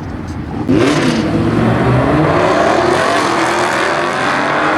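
A Chevrolet Camaro and a Dodge Challenger launching off the drag-strip start line at full throttle: about two-thirds of a second in, the engine sound jumps suddenly to loud, and the revs climb as the cars pull away.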